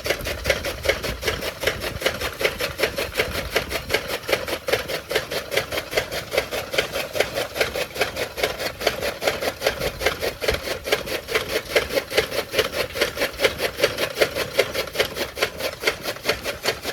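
Tokka chaff cutter chopping fodder, its blades making a fast, even rhythm of chopping strokes, about five a second.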